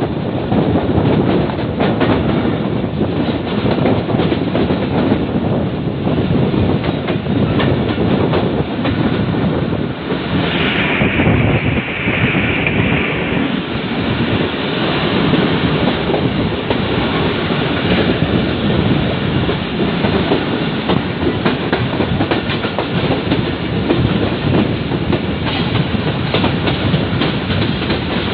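Millat Express passenger coaches running along the track, heard from an open door of the moving train: a steady rumble of wheels on rail with a rattle over the joints. About eleven seconds in, a high steady tone sounds for about two and a half seconds.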